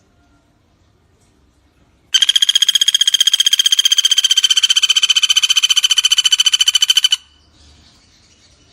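Pelatuk bawang woodpecker giving one long, rapid, high rattling trill of about a dozen notes a second. It starts about two seconds in and cuts off sharply after some five seconds.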